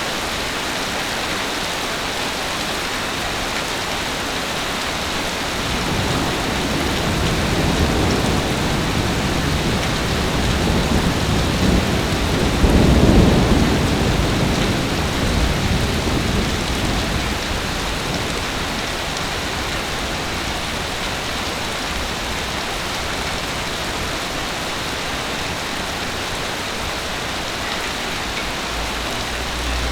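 Heavy rain falling steadily. A long roll of thunder builds from about six seconds in, is loudest near the middle, and dies away.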